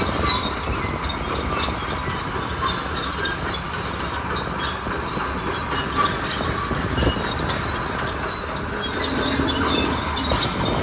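Crawler bulldozer working: its diesel engine running under a steady clatter of steel tracks, with many small metallic knocks.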